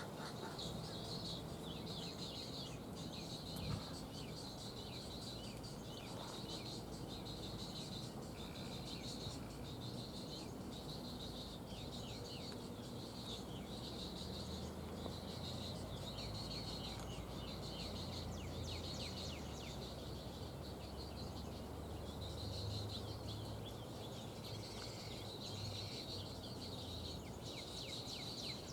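Outdoor pond-colony ambience: a high-pitched buzzing chorus that pulses roughly once a second, with many quick chirping bird calls over it.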